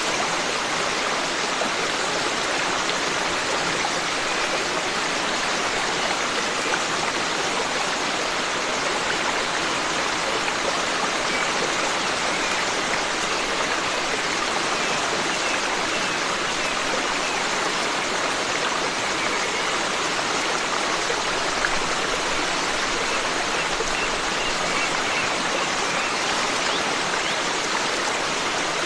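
Forest stream: water running with a steady rushing sound.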